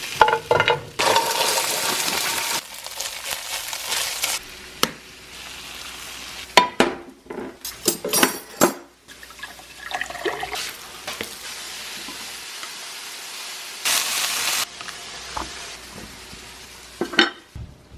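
Breakfast cooking in a kitchen: food sizzling in a pan, with two stretches of louder hissing and a run of sharp clatters of utensils and dishes about seven to nine seconds in.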